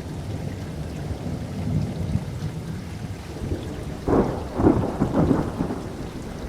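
Thunder rumbling low through steady rain, breaking into a louder crackling peal of several rapid cracks about four seconds in.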